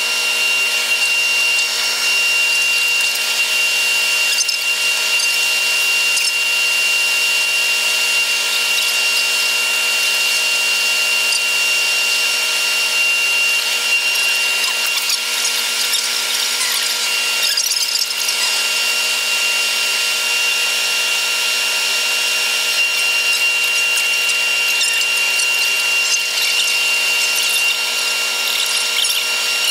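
Running noise of a Taiwan Railways EMU100 train in an eight-times-speed time-lapse: a steady, loud whining hiss with several fixed tones, one high tone standing out, and no low rumble.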